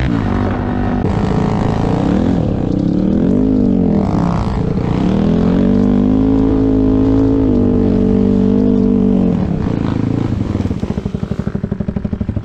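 Yamaha YZ400F four-stroke single-cylinder engine under way, its pitch rising and falling with the throttle, then held high for a few seconds. About nine seconds in it drops to a low, pulsing beat.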